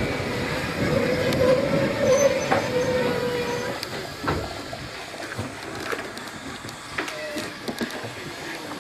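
A train running along the track, with a rumble and a steady squeal that die down about four seconds in, leaving quieter running with scattered clicks.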